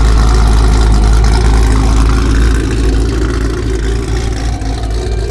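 A car engine running loud close by, its exhaust note heavy and low; it holds steady for about two and a half seconds, then gets a little quieter and uneven.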